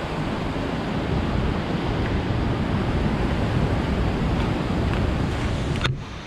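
Hurricane-force wind rushing and buffeting the microphone in a steady, heavy roar of noise that drops away abruptly near the end.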